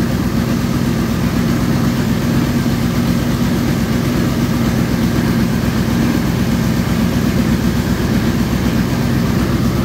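The 2005 Ford Explorer's 4.6-litre V8 idling steadily. It is pretty loud, with exhaust escaping from the open oxygen-sensor port on the driver's-side bank (cylinders 5 to 8).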